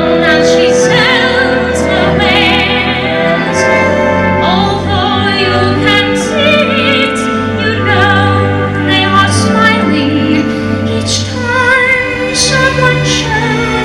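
A woman singing a slow ballad in a classical, operatic style with vibrato, over orchestral accompaniment.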